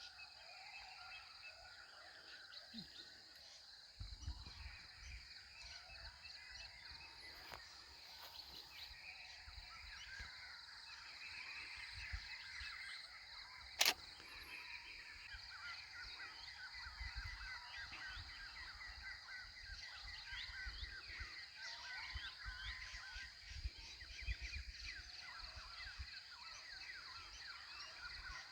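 Many birds calling and chirping together in a morning chorus over open grassland, over a steady high-pitched drone. A low rumble comes in about four seconds in, and there is a single sharp click about halfway through.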